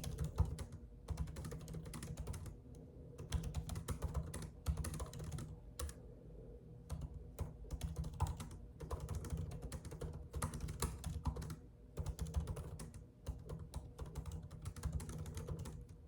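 Typing on a computer keyboard: quick runs of key clicks in bursts of a second or two, broken by short pauses.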